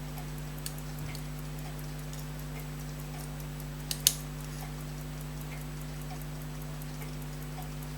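Faint, irregular small clicks of tweezers on the tiny parts of an Elgin pocket watch movement being fitted together, with one sharper double click about four seconds in, over a steady low electrical hum.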